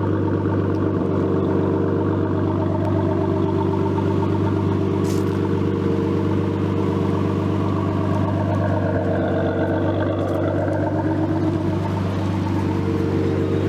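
Nissan Skyline's turbocharged RB20DET straight-six engine idling steadily.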